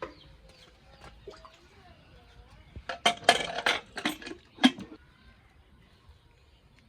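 Metal utensils and dishes clinking and knocking, a quick run of clatters in the second half, the loudest near the end of it.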